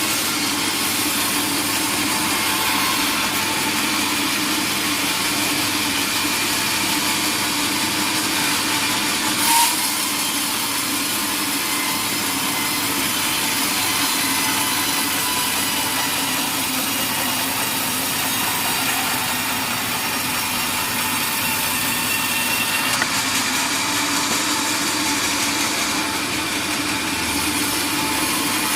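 Sawmill saw cutting through a large mahogany log: a steady, even sawing noise with a constant hum under it, and one brief sharp knock about ten seconds in.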